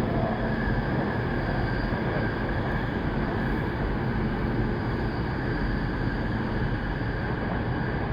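Saikyo Line commuter electric train running steadily, heard from inside the passenger car: a continuous rumble of wheels on rails with a faint steady motor hum.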